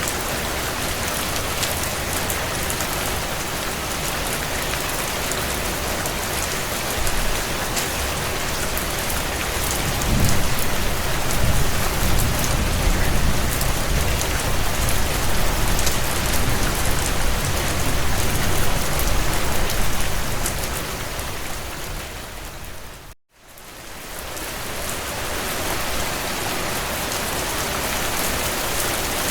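Heavy rain pattering steadily on a tin roof, a dense hiss of countless drops. A low rumble rises about ten seconds in and lasts some ten seconds; a little after twenty seconds the rain fades out to a moment of silence and fades straight back in.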